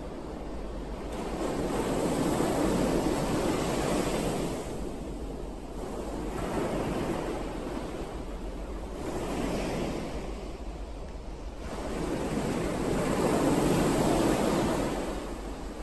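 Ocean waves washing onto the shore in slow surges of rushing surf, each swelling and fading over a few seconds. The biggest waves break about three seconds in and near the end, with smaller ones in between.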